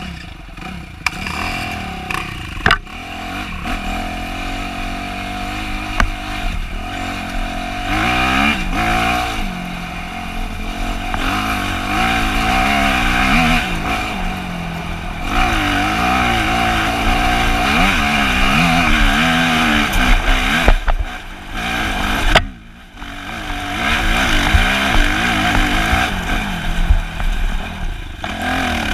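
Dirt bike engine heard from on board, revving up and down over and over as it rides a rough trail, with a few sharp knocks near the start. About three-quarters through the throttle closes briefly, then the engine picks up again.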